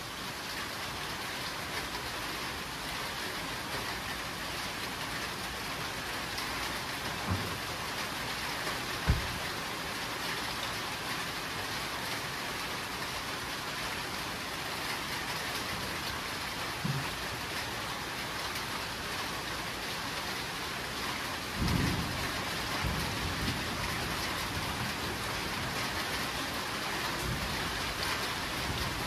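Steady heavy rain with low thunder rumbles. A short sharp one comes about a third of the way in, and a longer rumble comes about three-quarters of the way through.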